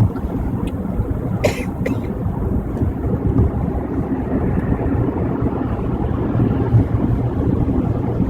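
Road noise inside a car at freeway speed on a rain-wet highway: a steady low rumble of tyres and engine, with a short high hiss about a second and a half in.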